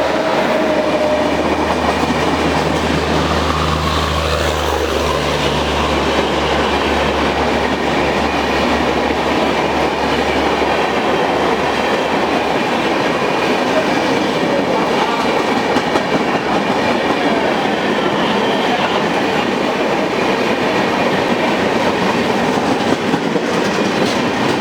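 Long electric-hauled passenger train, the Rajdhani Express, running past: a loud, steady rumble with wheels clattering over the rail joints. A low hum under it fades out about ten seconds in.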